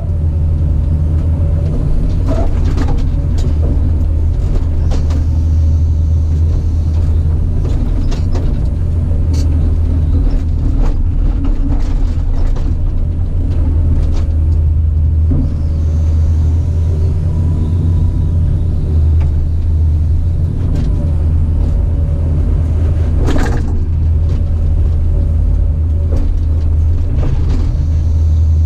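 Caterpillar 973C track loader's diesel engine running steadily with a deep drone, with scattered knocks and clanks throughout; the loudest knock comes near the end.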